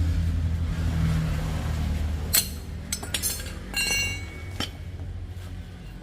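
A vehicle engine running with a steady low hum. About halfway through, several sharp metallic clinks ring briefly as the hum drops away.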